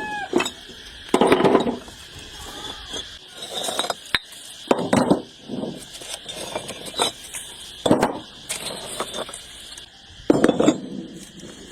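Intermittent clinking and knocking of hard objects being handled, in about six short bursts a second or two apart, over a steady thin high-pitched hum.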